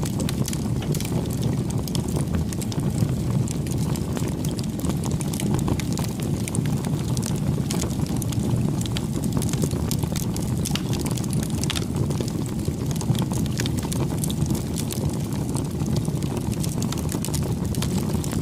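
Campfire burning: a steady low rumble of the fire with frequent small crackles and pops from the burning wood.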